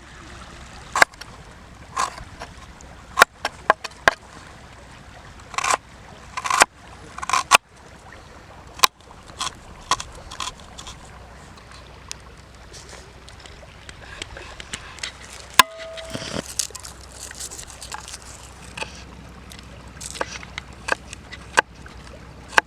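Irregular sharp knocks and clicks, roughly one a second, some with a short scrape after them, over a faint steady wash of water.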